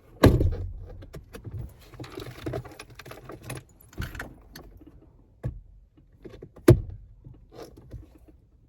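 Small items being handled and packed inside a car: clinking and rattling with scattered clicks, a short rustling stretch, and two sharp knocks, one just after the start and a louder one about two-thirds through.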